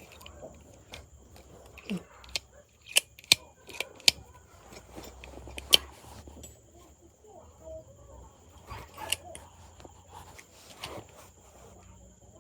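Scattered sharp clicks and taps of small metal parts and tools being handled while a PCP air rifle is put together, about eight distinct clicks, several close together in the first half.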